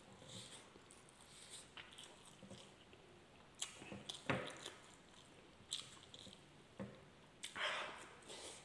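Close eating sounds of a man chewing a mouthful of rice and spicy milkfish sisig, with scattered wet mouth clicks and smacks. A short rush of noise comes near the end as he brings another handful to his mouth.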